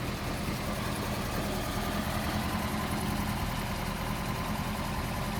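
Volvo 245DL engine idling steadily while warming up after a cold start.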